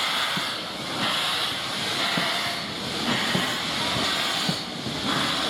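Steam locomotive letting off steam, a loud hiss that swells and eases in slow regular pulses, with faint light knocks underneath.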